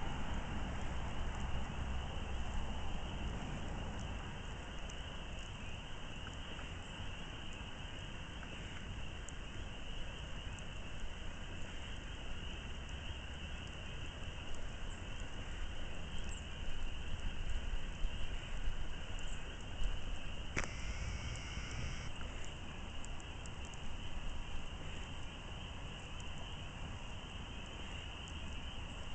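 Crickets chirring steadily in one high, even band over a low rumble, with scattered faint crackles from a backyard campfire. About twenty seconds in, a brief separate tone lasts for about a second and a half.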